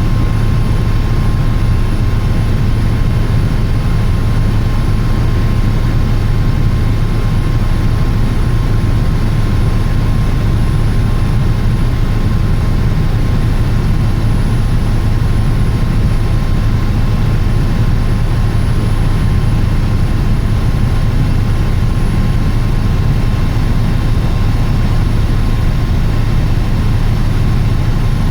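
Helicopter in flight: the steady drone of its engine and rotor, with a thin constant whine above it.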